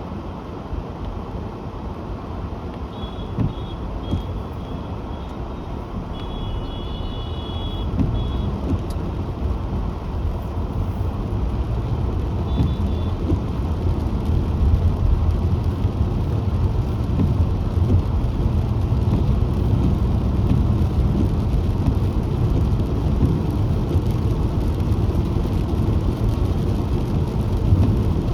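Car driving on a road: a steady rumble of engine and tyres that grows louder as the car picks up speed. Short high-pitched beeps from other traffic come a few seconds in and again near the middle.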